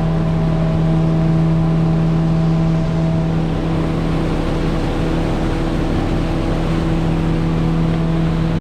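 An engine running steadily at an even pitch, a constant hum with overtones.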